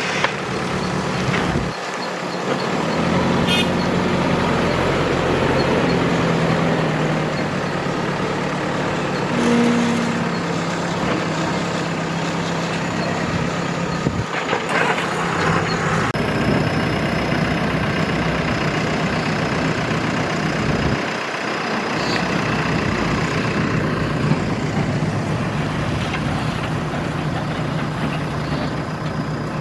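Heavy diesel engines running steadily, their pitch shifting now and then as the machines work: a backhoe loader and dump truck loading sand. A thin high whine comes in about halfway through.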